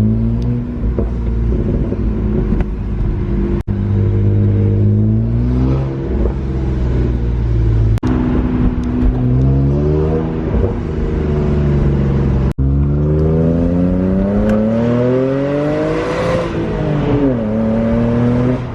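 2009 BMW 135i's twin-turbo inline-six (N54) accelerating hard through the gears. The pitch climbs in three pulls, each broken by a brief drop at a gear change. Near the end the pitch falls as the throttle is lifted.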